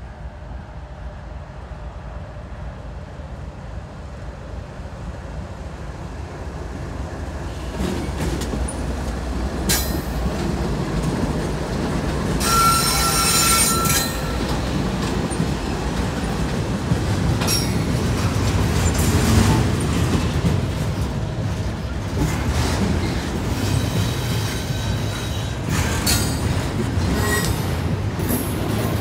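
Norfolk Southern diesel freight locomotives approaching and passing, their engine rumble building for the first several seconds. Double-stack intermodal well cars then roll by with a steady rumble and clatter of wheels on rail. A loud high wheel squeal comes about 13 seconds in, and fainter squeals follow later.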